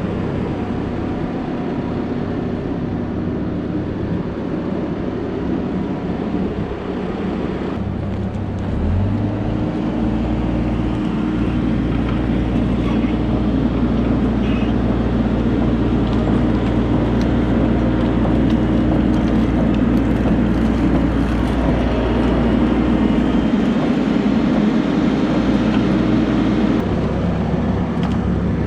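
Heavy diesel machinery running steadily, its engine speeding up and working harder about nine seconds in, then holding there.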